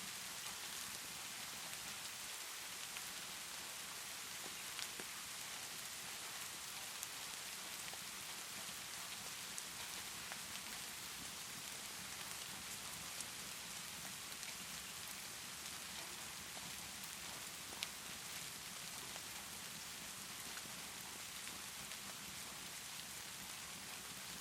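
Steady rainfall, a continuous even hiss, with a few sharp clicks scattered through it.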